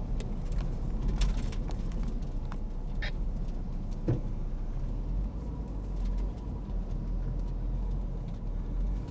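Road noise inside a moving car: a steady low rumble of tyres and engine, with a few faint clicks and a short knock about four seconds in.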